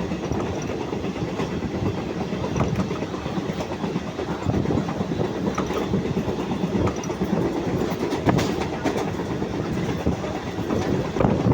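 Train running over a railway bridge: a steady rumble of wheels on rails with a rapid clickety-clack over rail joints, and a few sharper clanks about 8 seconds in and near the end.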